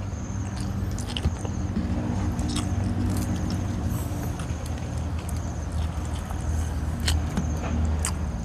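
Close-up mouth sounds of chewing and crunching food, with sharp crunchy clicks here and there as fried fish is eaten by hand, over a steady low hum.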